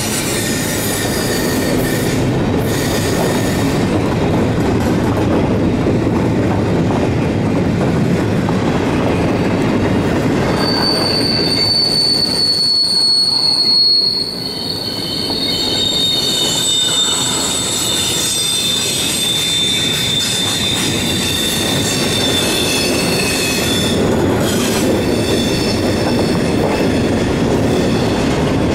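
Freight cars of a long train rolling through a curve: a steady rumble of wheels on rail, with high wheel-flange squeal in several shifting tones that grows strong about a third of the way in.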